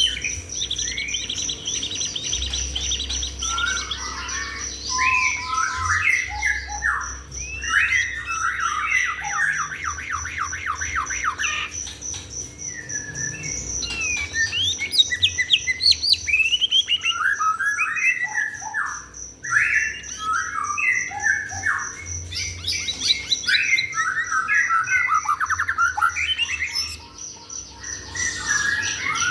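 A songbird singing vigorously after its bath: long, varied phrases of fast trills and chirps in bursts, with brief pauses. A steady, high, pulsing buzz runs underneath.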